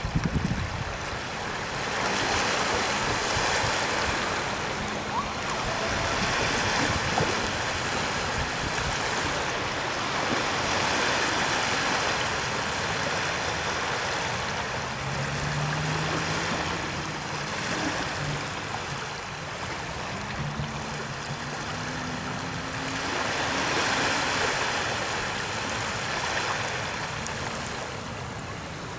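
Waves washing up on a sandy beach, the surf swelling and easing every several seconds.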